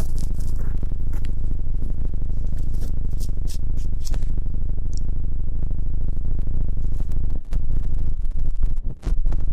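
ASMR ear-cleaning sounds close on the microphone: scraping and rubbing with scattered sharp clicks, over a deep steady hum.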